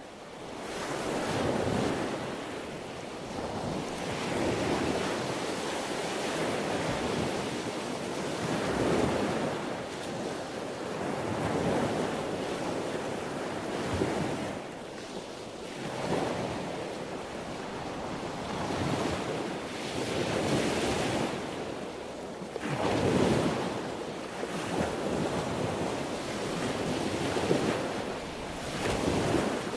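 Sea waves washing onto a shore: a continuous rush that swells with each wave every two to four seconds, then ebbs.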